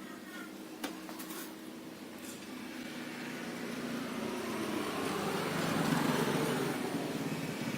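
A vehicle engine getting steadily louder as it approaches, with a sharp click about a second in.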